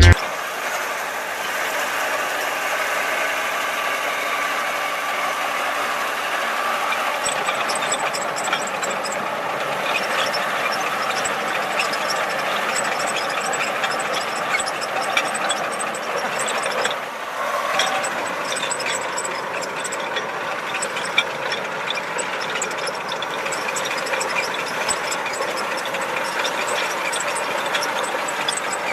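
A machine running steadily, with light rapid clicking joining in after several seconds.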